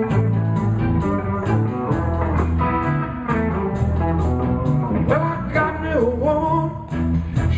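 A live blues band playing an instrumental passage: bass and drums keep a steady beat under guitar. In the second half, a lead line bends up and down between notes.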